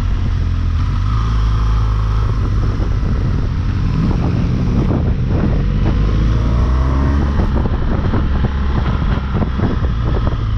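BMW R1200GS Rallye's flat-twin engine pulling the bike uphill, its pitch rising under acceleration about halfway through, with wind rushing over the microphone.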